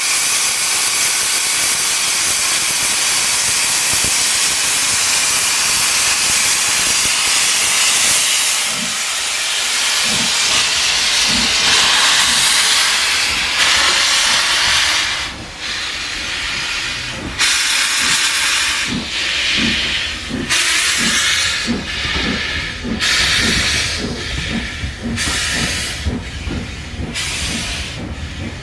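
Steam locomotive hissing steam for about fifteen seconds, then its exhaust chuffs start slowly and quicken as it pulls away.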